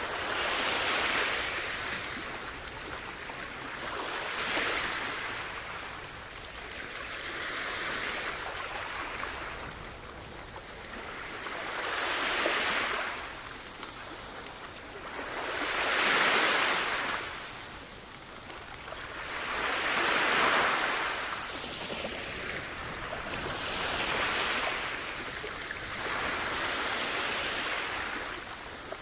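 Sea waves washing onto a shore, each wave swelling and falling away about every four seconds.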